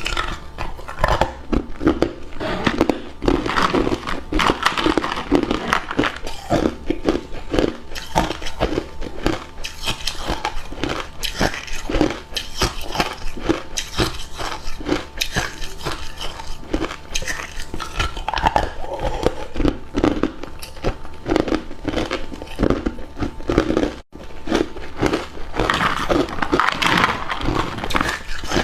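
A person biting and chewing hard ice cubes close to the microphone: a dense, continuous run of sharp crunches and cracks.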